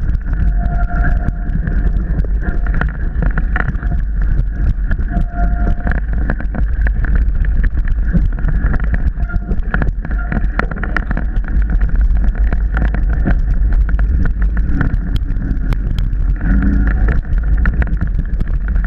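Mountain bike ridden over a rough, wet trail, heard from an onboard camera: steady wind rumble on the microphone with constant rattling and knocks from the bike, and an on-and-off high tone.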